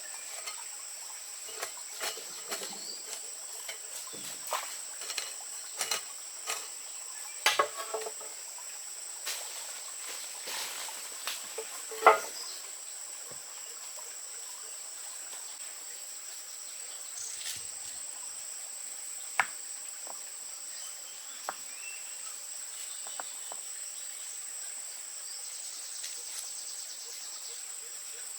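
Steady high-pitched insect drone, with scattered short knocks and taps over it, more often in the first half and loudest about twelve seconds in.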